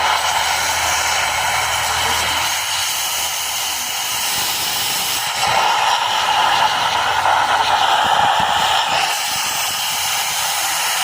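A steady, loud hiss of air or spray escaping under pressure, growing a little stronger about five and a half seconds in and easing off again near nine seconds.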